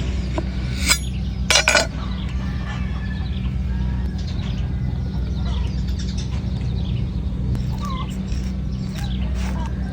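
A knife chopping into a coconut: one sharp strike about a second in, then a quick cluster of strikes half a second later, over a steady low hum, with faint chirps later on.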